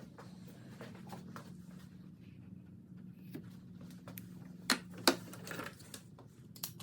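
Paracord being pulled and worked around a knife handle: faint rustling and light clicks, with two sharp clicks about five seconds in, over a steady low hum.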